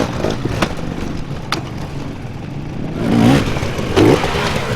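Off-road motorcycle engine running and revving up and down, loudest about a second from the end, with a few sharp clicks.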